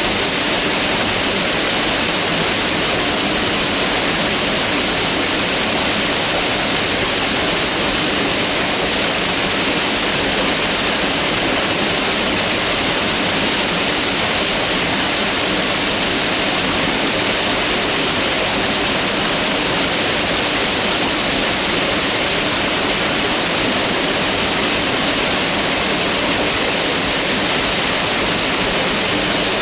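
Mountain river rushing steadily over rocks, a constant loud hiss of water without change.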